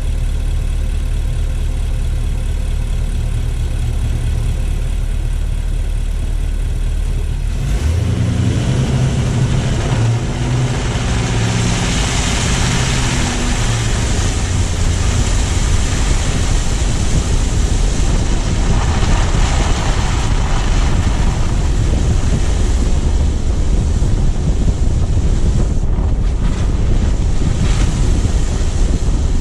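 Car engine idling with a steady low hum, then about eight seconds in the car pulls away and a broad rushing tyre-and-wind noise takes over as it drives on.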